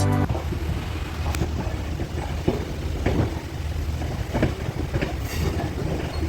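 Passenger train running along the track: a steady low rumble of the carriage with irregular knocks and clatter from the wheels and couplings, and rushing air. A music track cuts off just as it begins.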